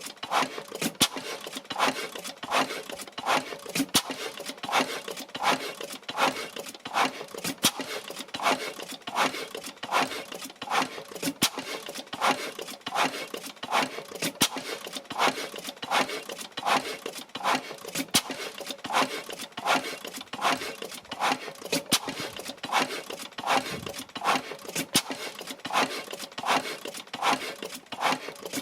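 Blackstone 3hp oil engine running at a steady speed, each stroke giving a sharp, even beat, with lighter clicks of the valve gear between the beats. It is running evenly after a repair.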